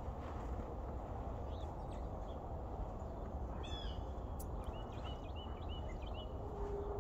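Small birds chirping: a few short high calls, a quick run of chirps near the middle and a string of repeated chirps about two-thirds in, over a steady low rumble of outdoor background noise.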